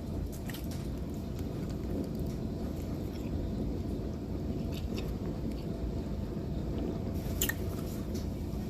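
A person chewing and biting a taquito close to the microphone, with a few short mouth clicks, the sharpest near the end.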